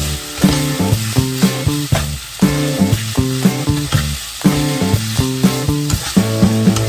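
Food sizzling as it fries in a hot pan, with a steady hiss, over a background music melody.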